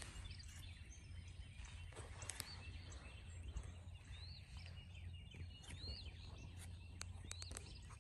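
Faint birds chirping, a handful of short rising calls, over a low steady rumble, with a few sharp clicks.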